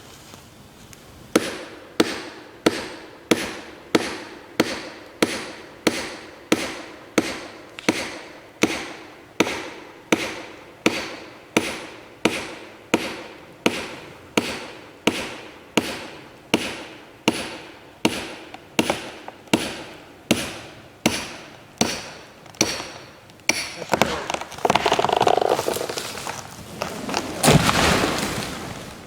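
Over thirty steady, evenly spaced blows, a little under two a second, driving a felling wedge into the back cut of a dead hemlock. Then the trunk cracks and creaks as it gives way, and near the end the tree crashes to the ground.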